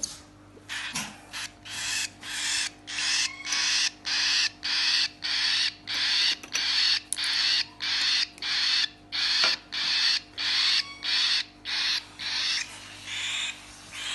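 Hand-fed cockatiel chick giving a long run of raspy, hissing food-begging calls, about two a second.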